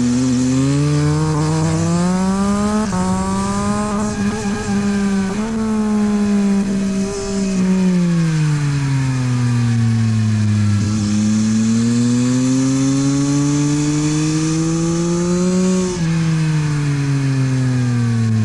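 Yamaha MT-09 SP's three-cylinder engine through a LeoVince exhaust, pulling hard on a race track. The revs climb, drop suddenly about three seconds in as a gear changes, fall away through a long stretch in the middle, then climb again and drop sharply near the end at another gear change.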